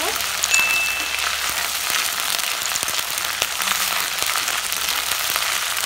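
Ground ginger-and-cumin paste frying in hot oil with bay leaves and dried red chillies: a steady sizzle and crackle as it is stirred with a spatula in the kadai, the paste being sautéed down before the dal goes in.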